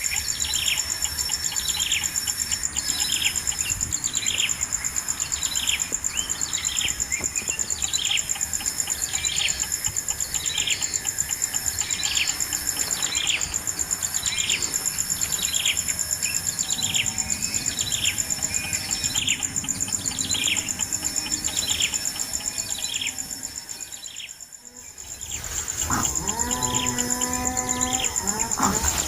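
A bird repeats a short falling call roughly every second over a steady high insect drone. About three quarters of the way in the sound fades briefly, then a low, drawn-out animal call like a cow's moo comes in near the end.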